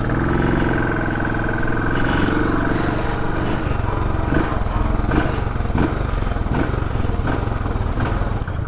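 Benelli TRK 502's parallel-twin engine pulling away, its note rising over the first couple of seconds, then running steadily at low speed with a few scattered knocks.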